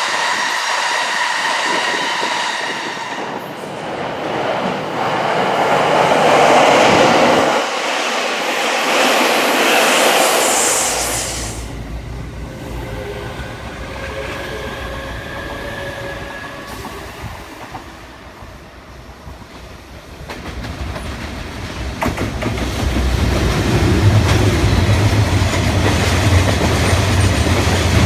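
Electric trains passing close by: wheels clattering over rail joints over a loud rushing noise, with a steady whine in the first few seconds. About eleven seconds in the sound changes to a deeper rumble that grows louder toward the end.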